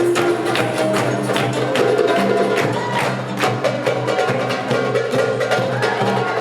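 Hand drums, darbukas among them, playing a fast, dense rhythm over music that holds steady low notes.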